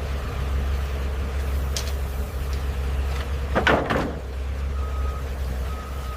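Truck engine running with a steady low rumble, with a few sharp clunks in the middle and faint evenly spaced reversing beeps near the end.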